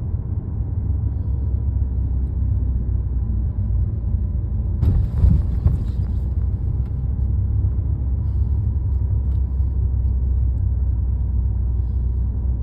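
Steady low road rumble heard from inside a moving car's cabin. About five seconds in there is a brief, louder noise.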